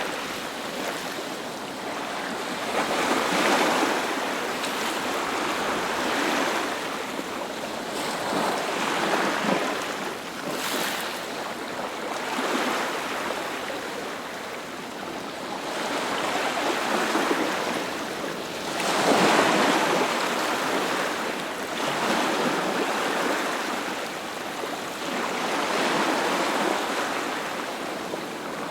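Sea waves breaking on the shore: a continuous rush of surf that swells and falls back every few seconds, with the biggest surge about nineteen seconds in.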